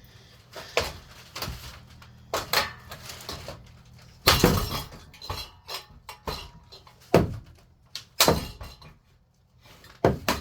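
A ceiling fan being struck with a golf club to break it apart: about eight sharp hits with rattling and breaking, the loudest a little past four seconds in.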